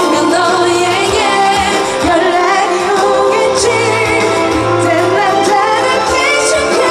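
Female pop singer singing live over full band accompaniment with drums, her voice wavering with vibrato on held notes.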